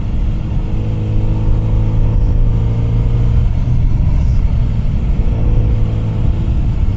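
Kawasaki Z900RS Cafe's inline-four engine running at a steady cruising pitch while riding, with wind rumble on the microphone underneath.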